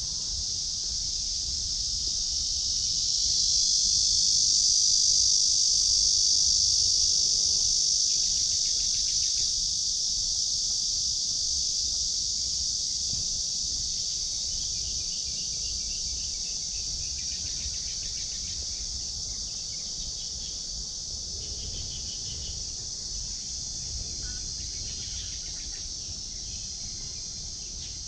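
Chorus of insects buzzing steadily in a high, continuous drone that swells a few seconds in and then slowly fades.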